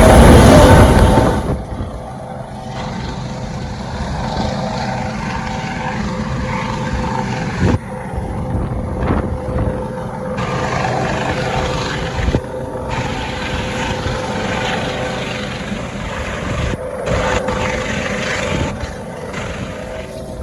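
Rescue helicopter hovering, its rotor and engine noise running steadily with a low pulsing. A much louder rush fills the first second and a half, then the level drops and stays steady.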